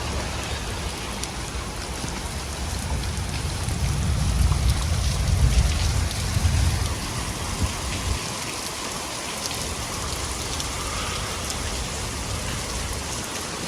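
Steady rain falling and splashing on the street and surfaces, with a low rumble that swells from about four to seven seconds in.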